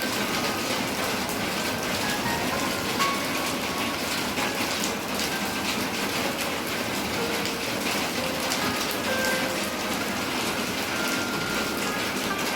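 Steady, dense rain falling, with a quiet melody of single notes playing over it.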